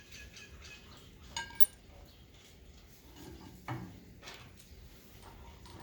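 Metal parts of a 2x72 belt grinder kit being handled and fitted together: a few sharp metallic clinks with a short ring, two close together about a second and a half in and more a couple of seconds later.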